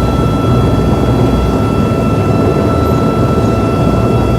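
Helicopter's engine and rotor running before lift-off: a steady loud rumble with steady high whining tones over it.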